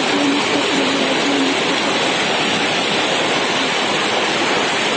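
A hailstorm with heavy rain: a dense, steady roar of falling hail and rain.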